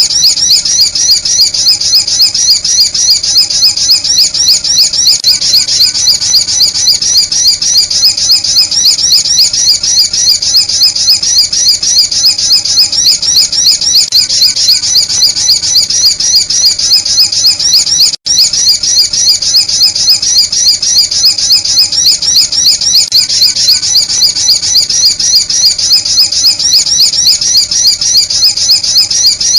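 Looped recording of sunbird calls played as a bird-lure call: a rapid, unbroken train of high, thin chirps repeated several times a second, with a split-second gap about two-thirds of the way through where the loop restarts.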